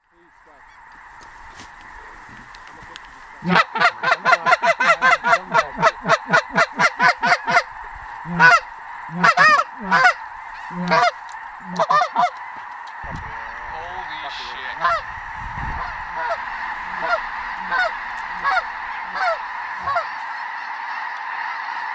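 Snow geese honking: a steady chorus of a distant flock, with a run of loud, fast honks close by from about three and a half to seven and a half seconds in, then scattered single honks.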